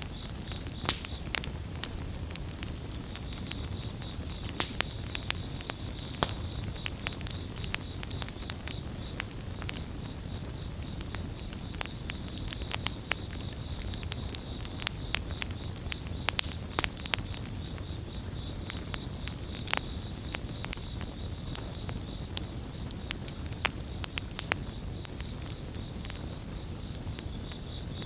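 Wood campfire burning with a steady low rumble and frequent sharp crackles and pops. Crickets chirp in a fast pulsing trill, clearest at the start and again over the last third.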